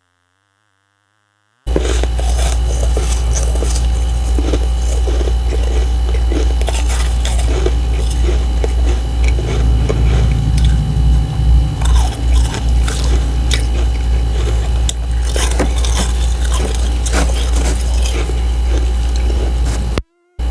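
Biting and crunching freezer frost, a dense run of sharp crunches over a steady low hum. It starts suddenly about two seconds in and cuts off just before the end.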